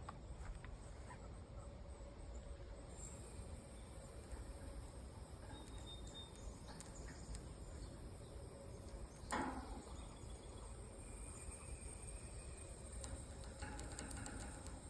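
Faint outdoor background with insects chirping steadily, and one brief knock about nine seconds in.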